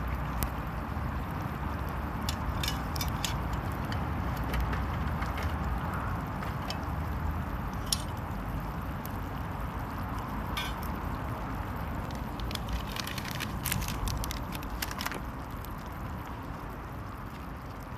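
Small wood fire under a cast iron Dutch oven of stew: a steady low rumble with scattered sharp crackles and clicks, and some liquid sloshing.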